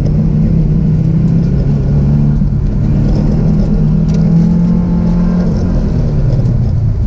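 Car engine heard from inside the cabin, pulling hard through an autocross course; its note holds and rises slightly, then drops away about five and a half seconds in.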